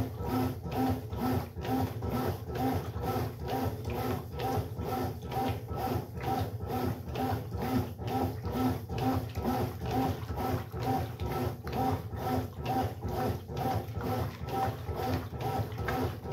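Brastemp Sexto Sentido 8 kg washing machine running mid-cycle, its motor hum pulsing in an even rhythm about twice a second.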